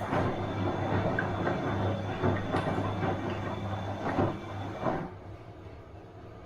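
Bosch washing machine running a wash: the drum tumbles the laundry with irregular knocks and rumbling over a steady motor hum, then the tumbling stops about five seconds in, leaving a quieter hum.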